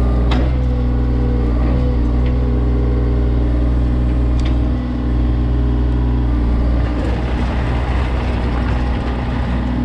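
John Deere 35G mini excavator's diesel engine running steadily, with a few faint knocks in the first half. From about seven seconds in, the engine note turns rougher and less even, as under hydraulic load.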